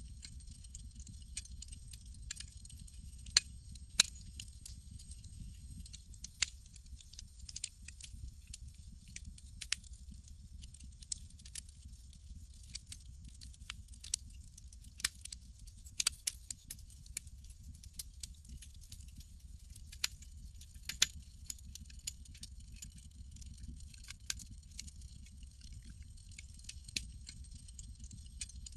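Campfire crackling: irregular sharp pops and snaps of burning wood over a steady low rumble and a soft high hiss.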